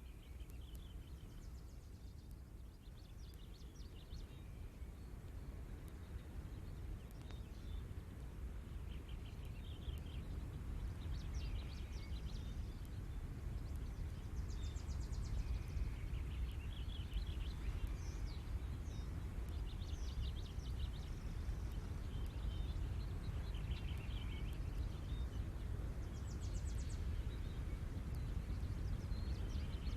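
Ocean surf as a steady low rumble that fades in over the first dozen seconds or so, with small birds chirping in short trills throughout.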